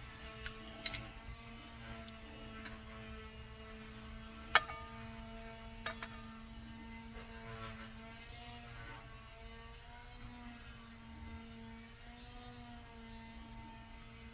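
A steady low hum with a slightly wavering pitch, broken by a few sharp clicks and taps of small metal parts or tools. The loudest click comes about four and a half seconds in.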